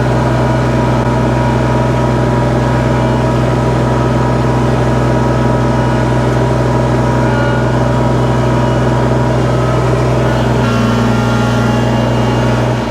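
Kubota BX compact tractor's three-cylinder diesel engine running steadily as the tractor is driven, its note shifting slightly about eleven seconds in.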